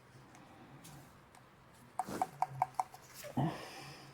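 A ratchet wrench clicking five times in quick succession, followed a moment later by a single metal clunk with a short ring as a part or tool is set down.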